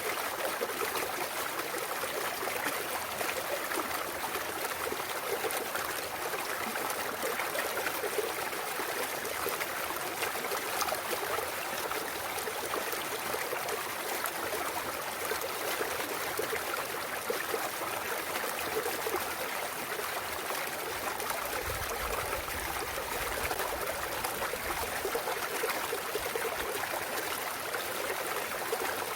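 A clear mountain stream flowing steadily over rocks, an even rush and trickle of water.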